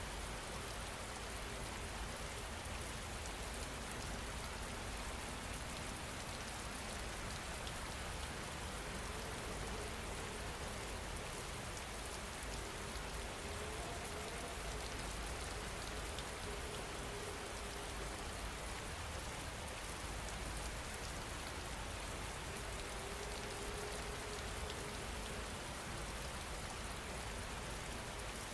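Steady rain falling, an even, continuous patter of drops with no change in strength.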